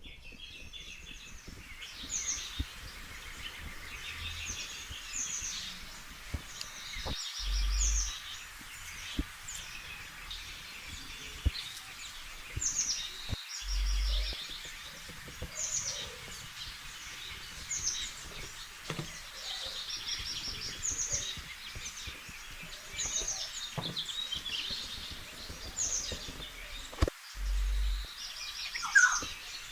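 Birds chirping and singing in short repeated phrases over a steady background hiss, with a few soft knocks.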